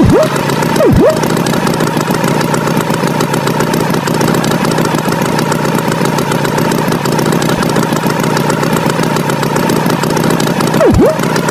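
Cartoon tractor engine sound effect running steadily. Three quick swoops dive down in pitch and come straight back up: one at the start, one about a second in and one near the end.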